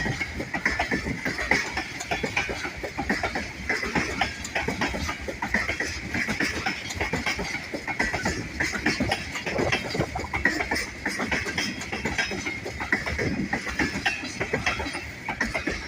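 Western New York & Pennsylvania Railroad train cars rolling past, with a steady stream of irregular clicks and knocks from the wheels on the rails.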